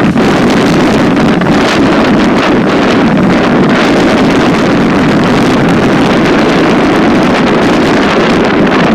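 Loud, steady rushing rumble of a freight train rolling past, mixed with wind buffeting the microphone.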